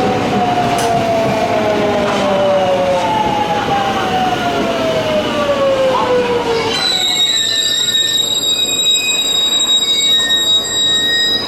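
Electric train slowing into a station under its motors: a whine falls steadily in pitch for about seven seconds, then a high steady brake squeal holds as it comes to a stop, cutting off near the end.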